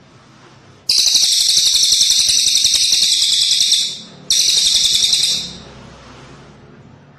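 Cililin bird singing two loud, rapid trilled phrases, the first about three seconds long and the second shorter after a brief pause.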